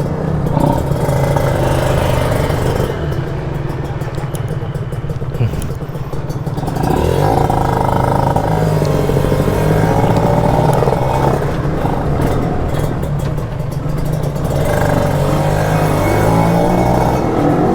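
Kawasaki Ninja 150 RR's single-cylinder two-stroke engine running under way, its revs rising and falling through the middle as the rider accelerates and eases off.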